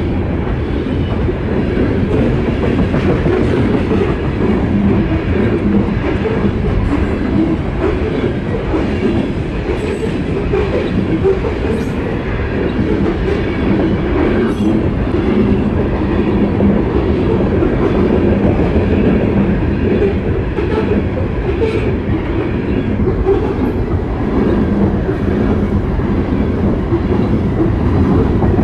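Coal gondola cars of a BNSF freight train rolling past at a grade crossing: a loud, steady rumble of steel wheels on the rails, with a few short high-pitched squeaks along the way.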